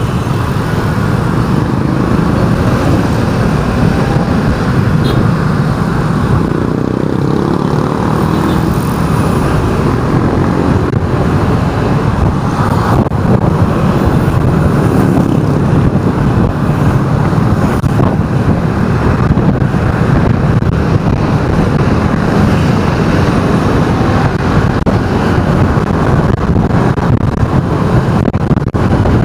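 Steady engine and road noise of a vehicle driving through city traffic, with a faint rising engine note from a passing vehicle about seven seconds in.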